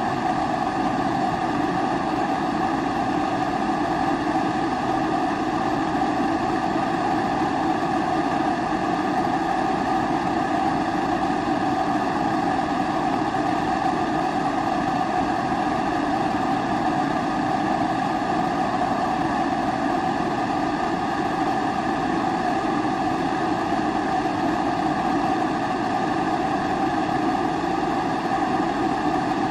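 Pressurized kerosene (primus-type) stove burning steadily: the even rushing sound of the burner flame, holding one level with no breaks or changes.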